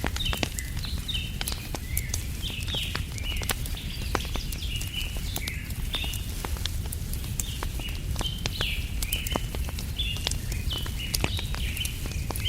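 Wood fire crackling with frequent sharp pops over a steady low rumble, while small birds chirp over and over in short high calls.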